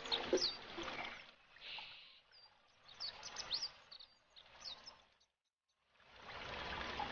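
Small birds chirping in short, quickly falling calls over a faint outdoor background. A brief near-silent gap comes about five seconds in, then a soft hiss rises near the end.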